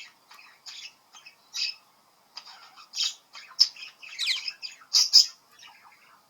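Budgerigar chattering: a string of short, sharp chirps and squawks, with a quick warbling call a little past the middle.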